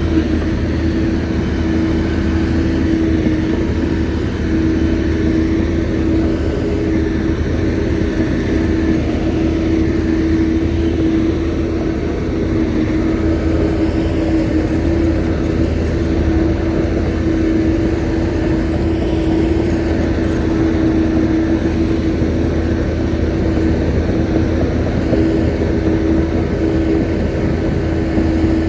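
Bulldozer's diesel engine running steadily under work, a constant drone with a strong steady hum that holds the same pitch throughout.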